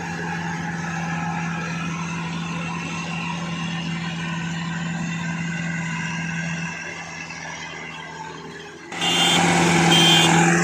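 Engine of a rice harvesting machine running with a steady hum. About nine seconds in, it suddenly becomes much louder and noisier.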